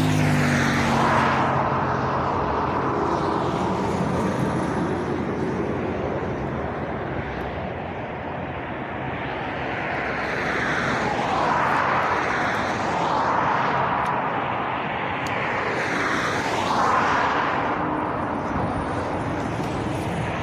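Road traffic passing at speed: a steady rush of tyre and engine noise, with several vehicles swishing past one after another.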